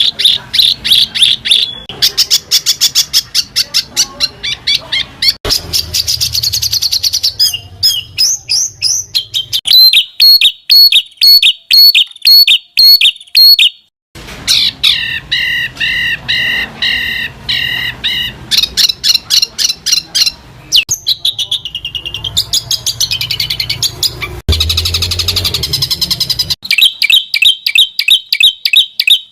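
Spliced recordings of songbird song used as masteran training material: fast series of repeated sharp notes and trills that switch abruptly to a new pattern every few seconds, with a short break about fourteen seconds in.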